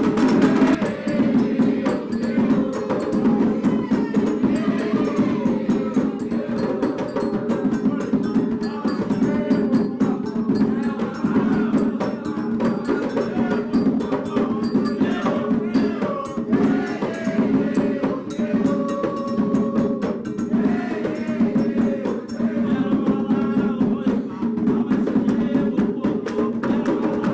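Candomblé drumming playing a rum for Oxum, a steady dense rhythm of hand-drum strokes with bell-like percussion, and voices singing over it.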